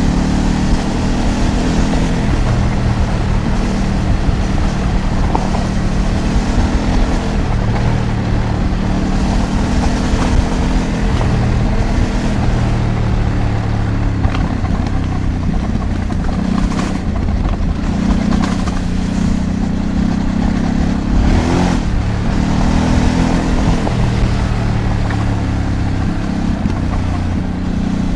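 Ducati DesertX Rally's 937 cc V-twin engine running under changing throttle, its pitch rising and falling several times, over steady wind and tyre noise, with a couple of brief knocks.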